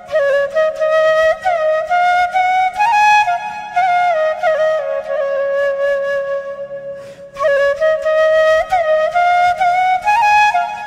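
Background music: a solo flute playing a slow, ornamented melody with slides between notes, over a faint low drone. It breaks off about seven seconds in, then a new phrase begins.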